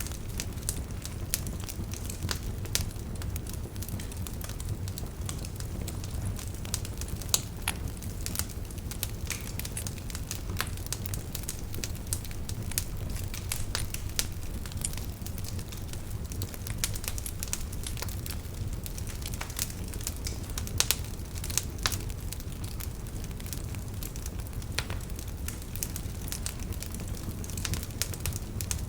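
Wood fire crackling in a fireplace: scattered sharp pops and snaps over a steady low rumble of flames, with a few louder pops.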